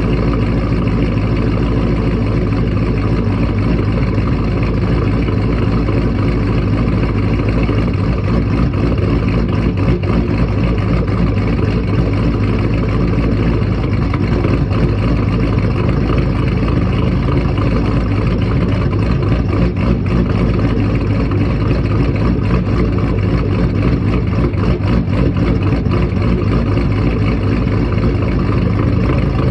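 Twin-turbocharged 5th-generation Chevrolet Camaro SS V8 idling steadily on a cold start, after sitting unstarted for a couple of days.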